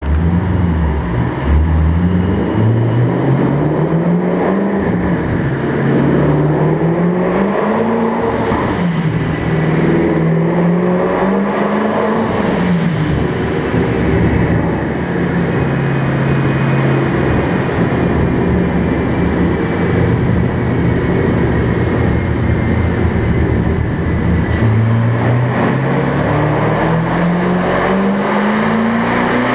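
The twin-turbocharged 5.0 V8 of a 2013 Mustang GT runs on a chassis dyno. It is revved up and down several times, holds a fairly steady speed for a while, then climbs steadily in revs near the end as a pull begins.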